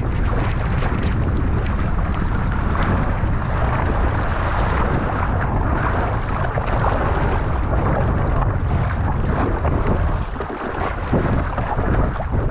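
Heavy wind buffeting the microphone with rushing water on a moving jet ski, a dense steady noise that dips briefly about ten seconds in.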